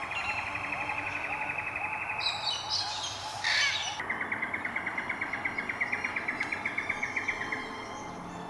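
Birds calling: a long, fast trill of repeated clicking notes, a short louder call about three and a half seconds in, then a second trill of about eight notes a second lasting some three and a half seconds.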